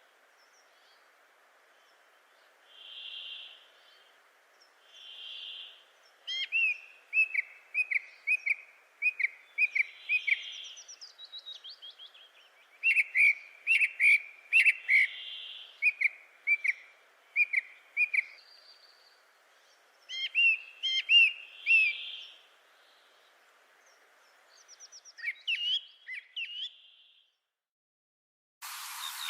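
Birds calling: soft, round whistled notes every few seconds mixed with runs of quick, sharp chirps. Near the end the sound changes abruptly to a louder hiss with a falling whistle.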